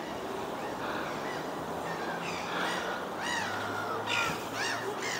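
Birds calling several times in short, arched calls that rise and fall in pitch, over a steady outdoor background.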